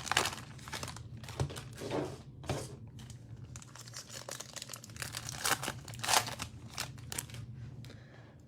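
Cellophane wrapper of a trading-card cello pack being torn open and crinkled, in irregular crackles.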